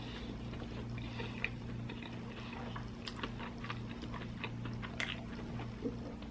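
A person chewing food: soft, irregular wet clicks and smacks, over a steady low hum.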